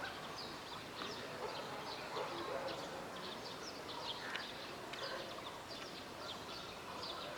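Many small birds chirping, with short, overlapping calls throughout over a steady background hiss.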